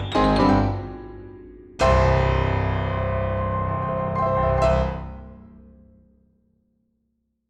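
Background piano music: a few notes, then a full chord struck about two seconds in that rings on and fades out.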